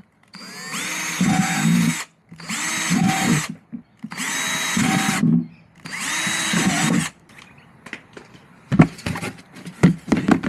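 Power drill boring drainage holes through a plastic rubbish bin: four separate bursts, each spinning up to speed with a rising whine, then a few light knocks and clicks of handling near the end.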